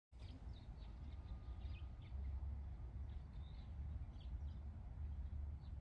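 Small birds chirping: short, high calls scattered all through, over a low, uneven rumble.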